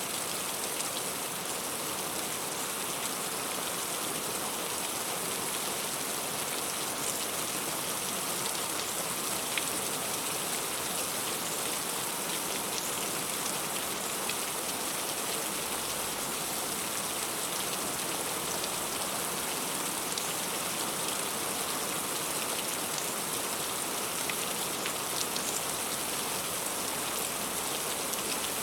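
Heavy rain falling steadily, with a constant hiss and many small sharper drop ticks scattered through it.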